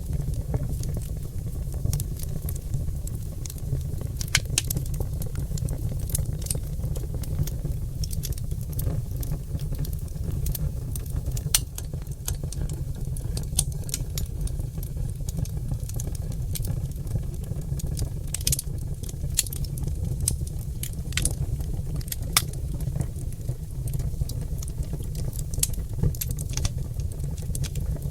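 Oak logs burning in a fireplace, crackling and popping with frequent irregular sharp snaps over a steady low rumble of the fire.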